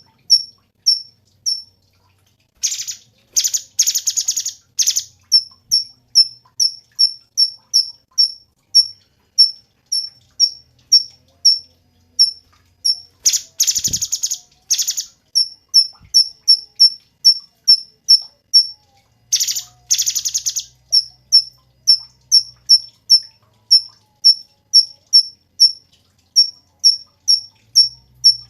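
Cucak cungkok singing: a fast, steady string of short, high chirps, about three a second, broken three times by louder, dense rattling trills.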